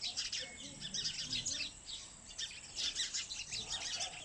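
Many small birds chirping at once: a dense run of quick, high, overlapping chirps, thinning briefly about halfway through.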